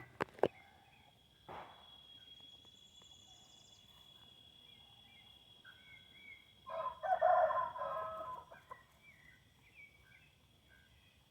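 Rooster crowing once, a loud call of about two seconds beginning just past the middle, with small birds chirping. A few sharp clicks at the start.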